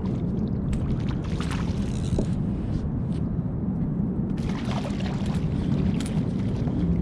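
Wind buffeting the microphone: a steady low rumble, with faint scattered crackles over it.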